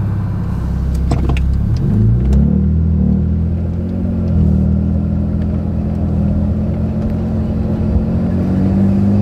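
Modified BMW E90's engine heard from inside the cabin, rising in pitch as the car accelerates about two seconds in, then running steadily, with a few light knocks shortly before the rise.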